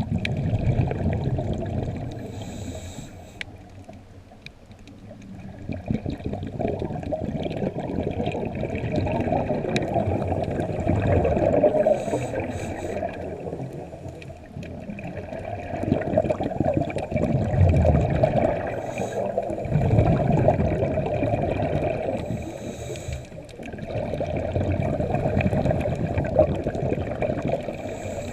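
Scuba diver breathing underwater: regulator breaths and exhaled bubbles gurgling, swelling and fading every several seconds.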